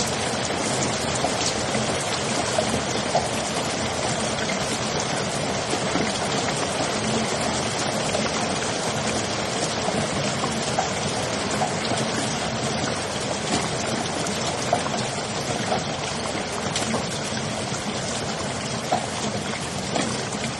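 Steady rain falling: an even hiss of water with scattered louder drop hits.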